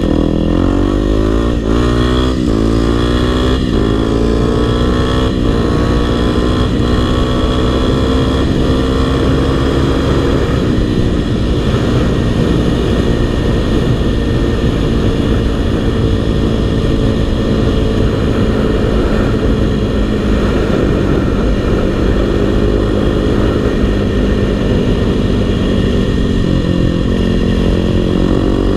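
Single-cylinder four-stroke dirt bike engine under way, revving up through the gears several times in the first few seconds with short breaks at each shift, then running at a steadier speed with gentle rises and falls in revs.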